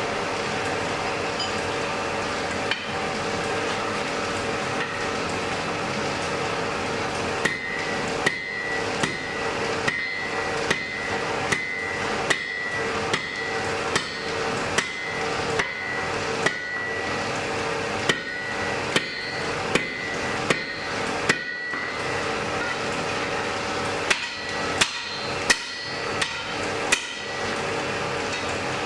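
Blacksmith's hammer striking on an anvil in three runs of steady blows, a little over one a second. Each blow leaves a bright ringing note from the anvil. Underneath is the steady drone of the forge fire, and the first blow comes about seven seconds in.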